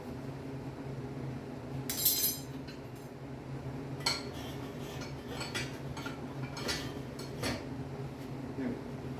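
Metal tools and parts being handled: a scattering of short metallic clinks and clanks, the loudest about two seconds in, over a steady low hum.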